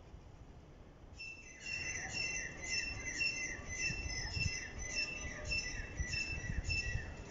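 A bird calling over and over, a short high chirp with a falling slur repeated about twice a second, starting about a second in. Faint low thumps sit beneath it.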